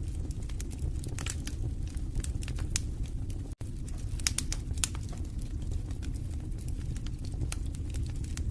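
Wood fire crackling in a fireplace: irregular sharp pops and snaps over a steady low rumble of the flames, with a split-second break in the sound about three and a half seconds in.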